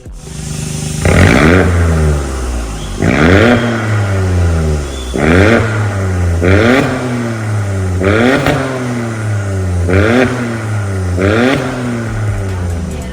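Ford Focus Mk4 1.5-litre turbocharged three-cylinder EcoBoost, free-revved about seven times through an MS-R cat-back exhaust with a valved rear muffler. Each blip rises sharply and falls back to a low idle.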